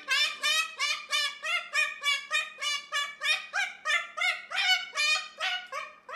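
A pet bird calling over and over in a fast, even series of short pitched notes, about three a second, each rising at the start.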